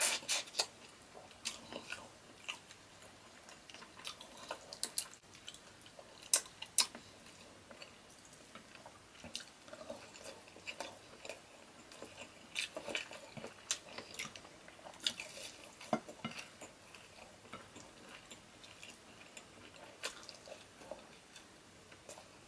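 Close-miked eating sounds of a man eating shrimp and rice with his fingers: irregular wet chewing clicks and mouth smacks, with occasional light taps of fingers and food against a ceramic plate. The sounds come in a dense cluster right at the start, then sparser for the rest.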